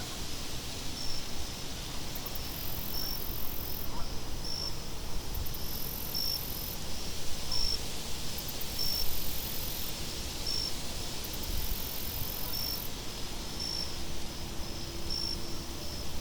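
Crickets chirping: a very high buzzing trill in repeating spells every few seconds, with short separate chirps between, over a steady low rumble of wind.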